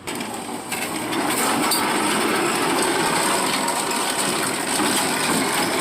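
Steady vehicle engine and road noise that grows louder over the first second, with a few faint clicks.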